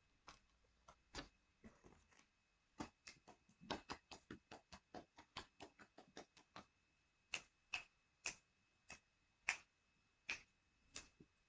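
A string of sharp clicks in near silence: a few scattered ones, then a quick run of about five a second for several seconds, then slower, louder clicks about one every half second to second.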